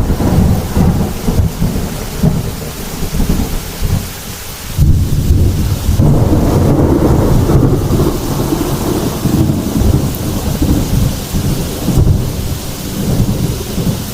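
Heavy thunderstorm: steady rain with low thunder rolling and rumbling. The rumble eases briefly about four seconds in, then swells back loud about a second later.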